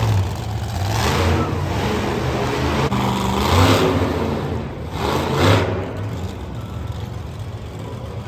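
Engine revving in repeated swells, about three surges, over a steady low hum.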